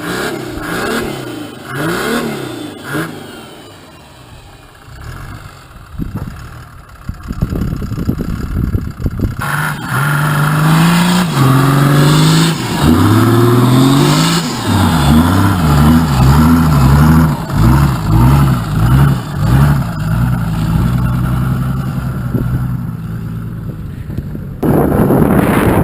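The Mercedes OM603 twin-turbo diesel of a 1941 GMC CCKW 6x6 truck being driven in snow, revving up and down under load again and again. It is quieter for a few seconds early on, then loud with many rises and falls in pitch. Near the end it changes suddenly to a rushing noise.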